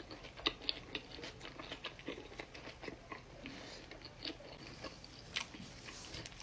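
A person chewing and biting into a McDonald's Daily Double burger up close, with many small, irregular wet mouth clicks.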